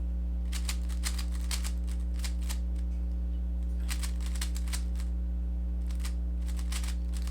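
Rubik's cube layers being turned fast, in three quick flurries of plastic clicks, while a Z perm algorithm is executed. A steady electrical hum runs underneath.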